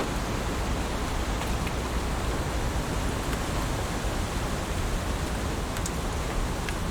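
Heavy rain falling steadily, a dense even hiss, with a few sharper single drop hits near the end.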